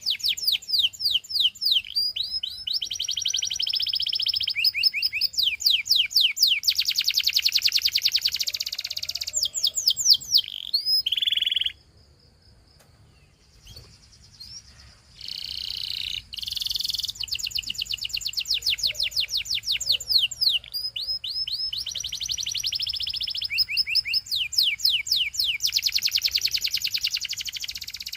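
A canary singing long runs of rapid, evenly repeated trill notes, breaking off for about two seconds a little before the middle and then taking up its rolls again.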